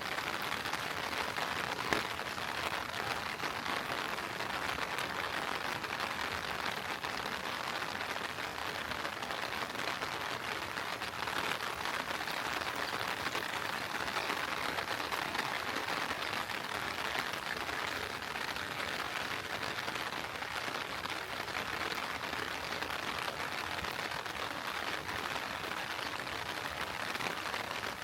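Steady heavy rain falling and pattering on surfaces, an even hiss throughout, with a single sharp tick about two seconds in.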